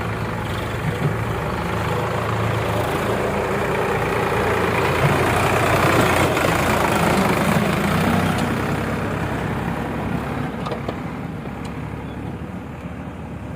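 Heavy diesel engine running steadily, getting louder toward the middle and fading over the last few seconds.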